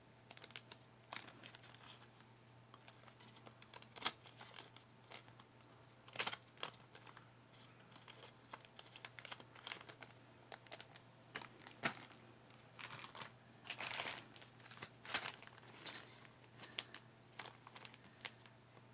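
Faint crinkling and rustling of small packaging being handled, with scattered light clicks and taps. The busiest stretch of crinkling comes about two-thirds of the way through.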